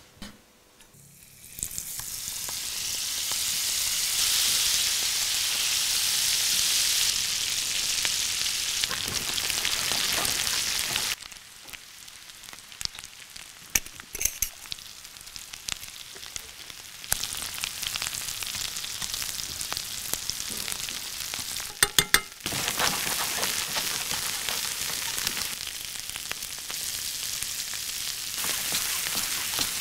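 Smashed boiled potatoes sizzling as they fry in a pan. The sizzle is loud at first, drops low for a stretch in the middle with a few sharp clicks, then comes back loud after a quick cluster of clicks.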